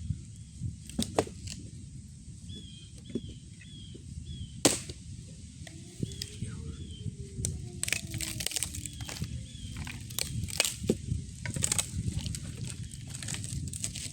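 Campfire crackling and popping at irregular intervals, with small birds chirping.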